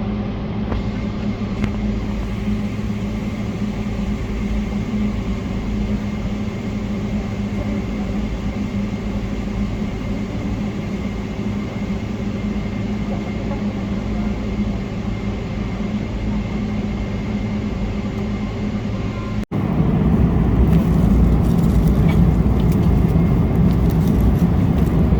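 Boeing 777-300ER cabin noise: a steady hum of engines and air systems with a few held tones. After a cut about 19 seconds in, it becomes a louder, fuller rush.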